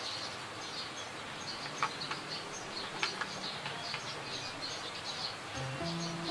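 Small birds chirping repeatedly in the background, with a few faint clicks. Near the end a steady low tone sets in and holds.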